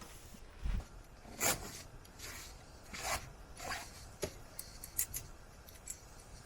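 Scattered short scrapes and knocks, irregular and a second or so apart, with one low thud near the start: wood or camp gear being handled and worked by hand.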